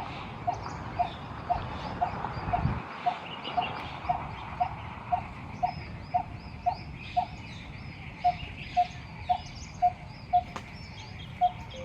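Coppersmith barbet calling: a monotonous series of short, hollow 'tuk' notes on one pitch, about two a second, with a brief pause about three-quarters through. Fainter chirps of other birds sound behind it.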